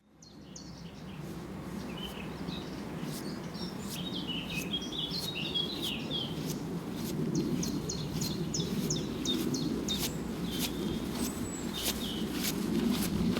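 Songbirds singing: a run of quick chirps and short trills over a steady low background rumble, fading in at the start.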